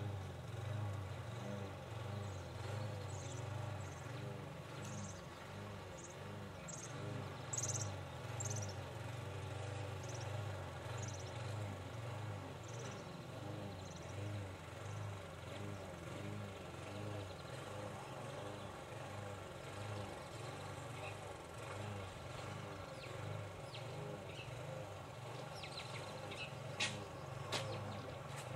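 A steady low hum with a faint pulsing, and a small bird's short high chirps repeating about once a second in the first half. Two sharp clicks come near the end.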